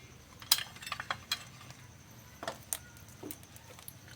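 Scattered small metallic clicks and clinks, a handful of separate light knocks in the first three seconds or so, from tools and parts being handled on a workbench.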